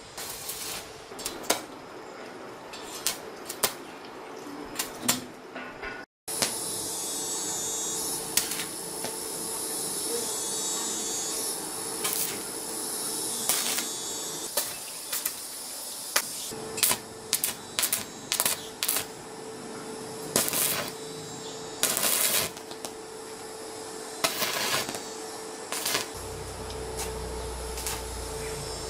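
Irregular metallic clinks and knocks of hand tools working on truck axle parts, some in quick clusters, over a steady faint hum; a low engine rumble comes in near the end.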